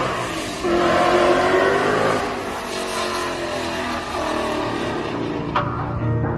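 A car engine revving hard, its pitch rising and falling, with a single sharp crack near the end.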